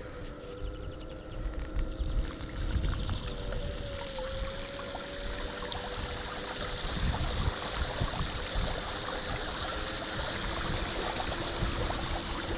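Electric bike riding slowly through floodwater on a cycle path: steady swishing and splashing of water around the wheels, with the electric motor's steady whine underneath.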